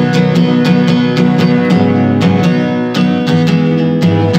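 Instrumental music: acoustic guitar strummed in a steady rhythm, about three to four strums a second.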